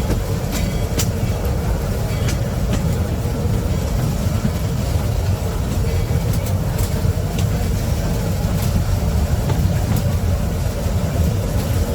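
A heavy vehicle running with a steady low rumble, with a few light clicks.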